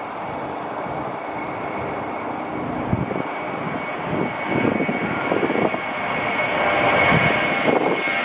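Airliner engines passing close, a broad rushing noise with a steady high whine that grows gradually louder.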